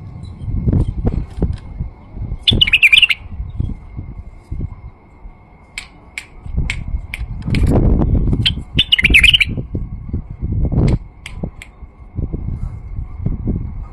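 White-eared bulbul singing: a short warbled phrase about two and a half seconds in and another about nine seconds in, with sharp single chip notes between them, over low rumbling noise.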